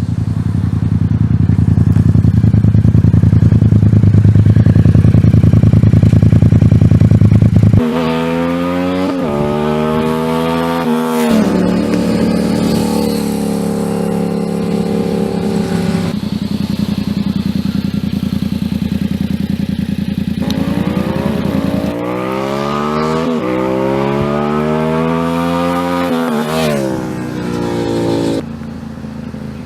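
Yamaha MT-07's parallel-twin engine through an aftermarket exhaust. It runs loud and steady for about eight seconds, then after a sudden change it climbs in revs in repeated rising runs with gear changes between them, settles to a steadier note, and accelerates up through several gears again near the end.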